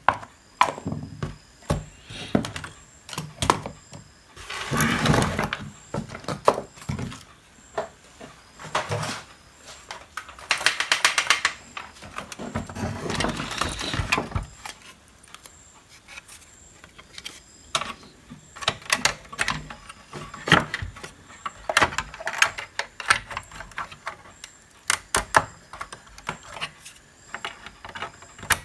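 Workbench handling noise: scattered clicks and knocks of parts and tools being moved and set down, with a few short scraping sounds and a brief rattling buzz around ten seconds in.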